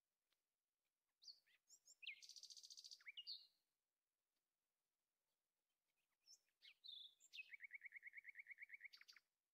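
A songbird singing faintly: two song phrases, each a few quick whistled notes running into a rapid trill, the second trill lower and steadier at about a dozen notes a second.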